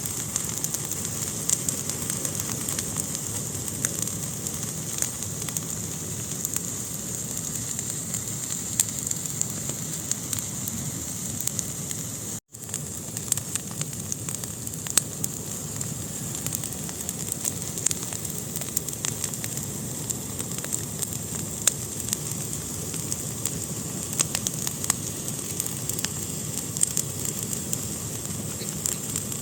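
Fire burning in a fireplace: a steady hiss with frequent sharp crackles and pops, cutting out for an instant about twelve seconds in.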